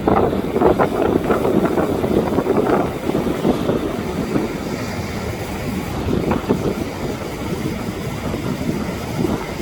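Wind buffeting the microphone in gusts over a steady rushing noise, strongest in the first three seconds.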